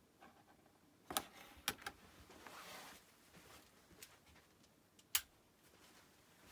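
A few sharp clicks, a cluster of three about a second in and a single louder one about five seconds in, with a soft rustle of handling between them, from switches being flicked and things being handled.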